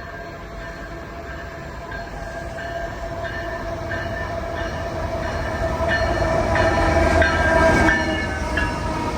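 Freight train rolling past at track level: locomotive running and wheels clicking over rail joints, growing steadily louder to a peak near the end before easing slightly.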